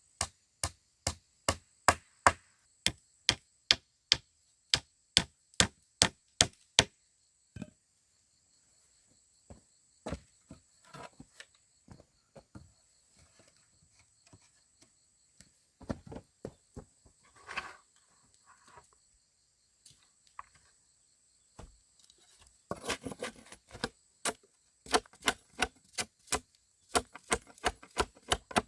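Steady chopping with a blade on wood, about two sharp strokes a second, stopping about seven seconds in. Scattered knocks, rustling and a brief scrape follow, and the chopping starts again near the end.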